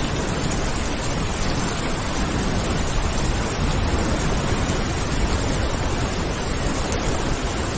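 Steady rain falling, an even, unbroken hiss with a deep low rumble beneath it.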